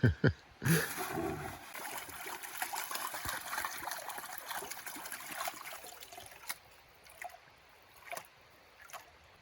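Water swishing and trickling in a gold pan as gravel is washed down, after a couple of sharp knocks at the start; a few light clicks near the end as the washing dies away.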